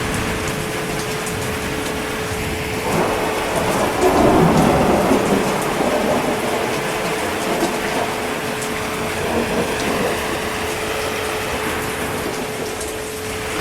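Steady heavy rain, with a rumble of thunder that swells about three seconds in and fades out by about six seconds.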